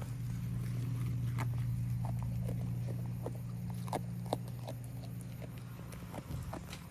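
Goats chewing and tearing at leafy branches: irregular crisp clicks and snaps, over a steady low hum.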